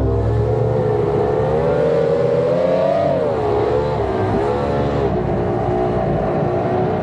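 Twin 2.4-litre Mercury V6 two-stroke outboards running hard on a performance boat. The pitch climbs over the first three seconds, dips briefly about three and a half seconds in, then holds steady.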